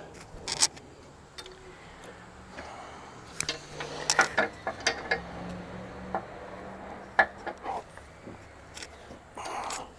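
Irregular clinks and knocks of hand tools and metal parts being handled during work on a truck's air suspension, busiest in the middle, with a short noisy burst near the end.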